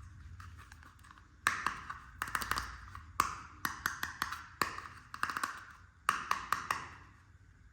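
Hard plastic toy pieces tapping and clicking against each other: about fifteen sharp taps in irregular clusters, starting about a second and a half in and stopping near the end.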